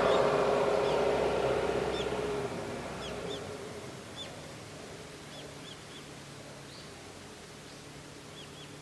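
A louder sound with steady tones fades away over the first few seconds. After that, short high bird chirps repeat irregularly over quiet outdoor ambience.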